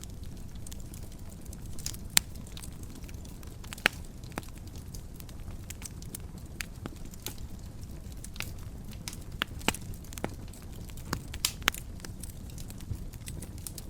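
Fire crackling in a fireplace: a steady low rush of flame with irregular sharp pops, the loudest about 2, 4 and 12 seconds in.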